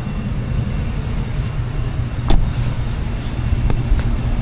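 Low, steady rumble of a road vehicle on the move, with one sharp click a little past two seconds in.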